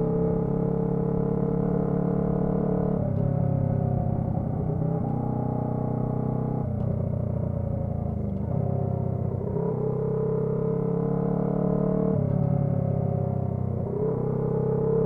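Honda CB125T's 125 cc parallel-twin engine and exhaust running under way. The engine note drops and changes in steps several times, and its pitch climbs gently in between.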